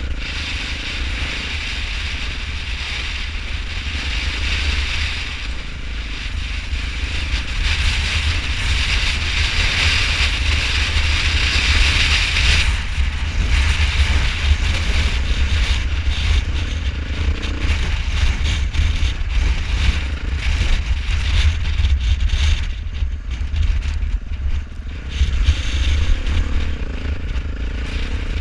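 Wind rushing and buffeting over the microphone of a rider moving at speed, with a vehicle running underneath. From about halfway on, a dense patter of sharp taps joins in, fitting hail striking the rider and camera.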